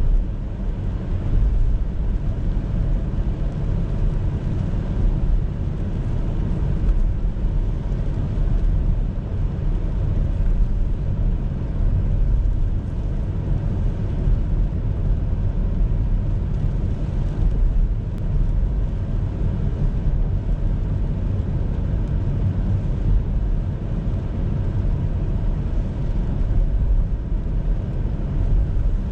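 Car driving on city roads: a steady low rumble of engine and road noise, with no sharp events.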